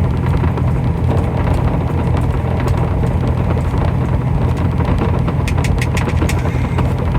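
Steady low idling hum of the semi truck's engine, heard inside the cab. About five and a half seconds in, a quick run of short scraping clicks as sauce is pressed through a strainer.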